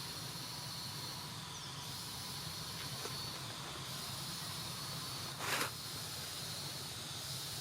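Steady background hiss with a faint, even high-pitched drone. A single short burst of noise comes about five and a half seconds in.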